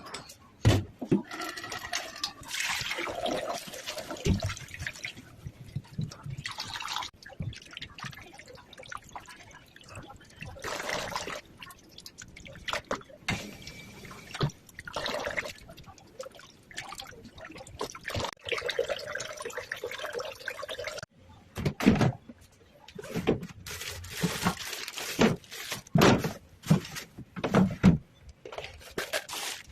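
Liquid pouring and sloshing, broken by scattered knocks and clatters, thickest in the last third.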